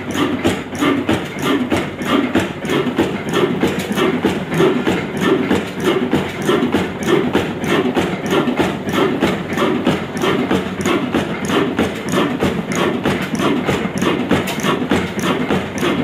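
Vintage Ruston Hornsby diesel engine running steadily under load, its exhaust beating in an even, rapid rhythm of several knocks a second.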